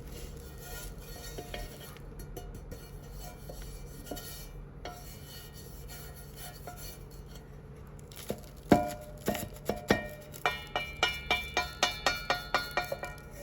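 Quiet handling and rubbing of brass samovar parts with a few faint clicks. Then metal pieces clink and ring, first a few separate strikes and then a quick run of about four or five ringing clinks a second near the end.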